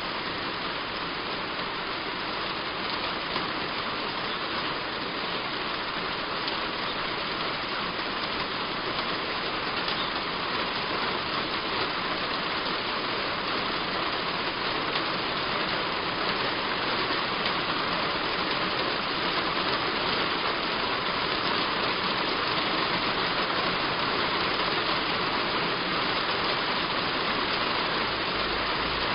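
Heavy rain falling steadily on a roof: an even hiss that grows slightly louder over the stretch.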